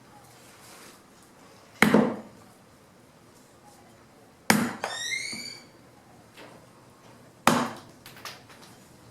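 Three chopping strikes into wood, about three seconds apart, as fallen branches are cut down into wood chips. Each strike has a few smaller knocks after it. A short rising chirp follows the second strike.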